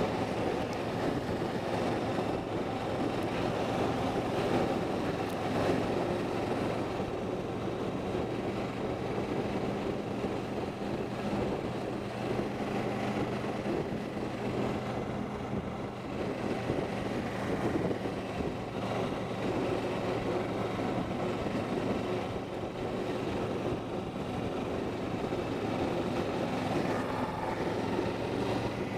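A vehicle engine running steadily: a constant low drone with a noisy rush over it and no change in pitch or level.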